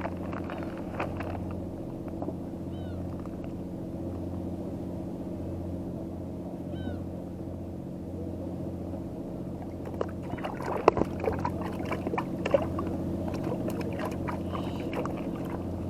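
A boat engine idles steadily in the harbour with a low, even drone. Scattered clicks and knocks come between about ten and thirteen seconds in, and two short rising chirps come earlier.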